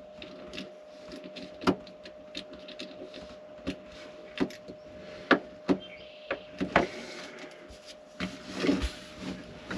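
Irregular clicks and knocks of hand tools and bolt hardware being handled while battery connections are worked on, with a scraping rustle near the end and a faint steady hum underneath.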